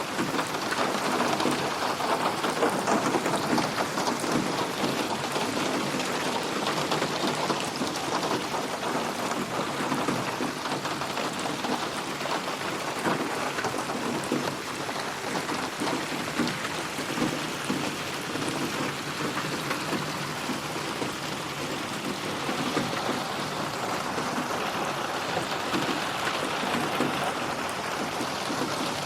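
Steady heavy rain, a dense even patter of drops, processed as 8D audio so it seems to move around the listener.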